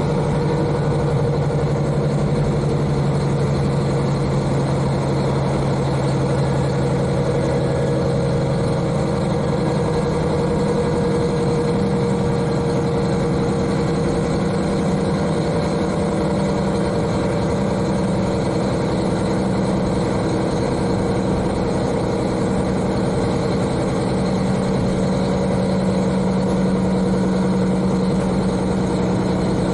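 The N-DMF13HZI diesel engine of a KiHa 40 railcar running as the car travels along the line, heard from inside the car directly above the engine. The engine note is steady, and it changes pitch about ten seconds in.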